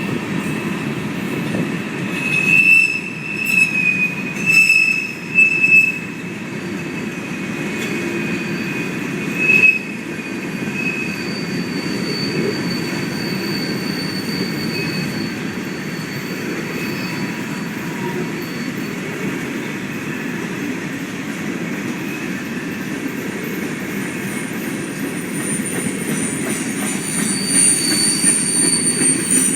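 Freight train rolling past with a steady rumble of wheels on rail, and high-pitched wheel squeal that flares in several loud bursts a couple of seconds in, once more about ten seconds in, and again near the end.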